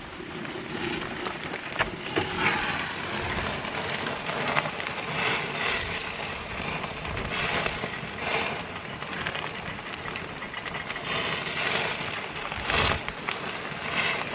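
Pizza burgers sizzling on a grill, with a steady hiss and frequent small crackles of spitting fat.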